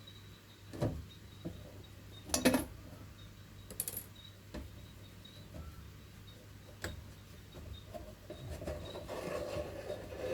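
Small metal clock parts and tools clicking and clinking as they are handled, a handful of separate knocks with the loudest cluster about two and a half seconds in, then a longer rustling scrape near the end. A steady low hum runs underneath.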